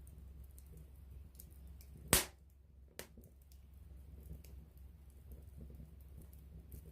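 Wood campfire crackling with scattered small ticks over a low steady rumble, a sharp loud pop about two seconds in and a smaller pop about a second later.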